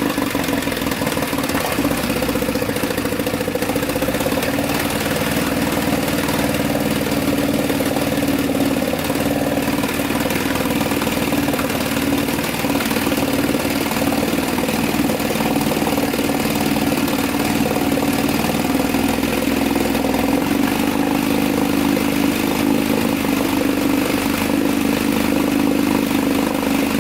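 Chrysler 9.2 hp two-stroke outboard motor running steadily, with a slight change in its low tone about twenty seconds in.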